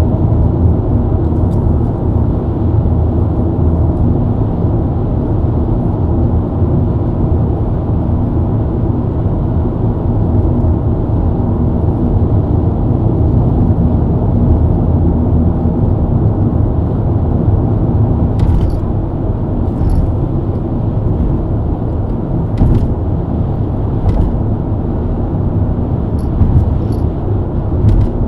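BMW E90 323i's straight-six engine running steadily at highway cruise under a heavy, even rumble of tyres and road. In the second half a few short clicks or ticks stand out, about half a dozen spread over several seconds.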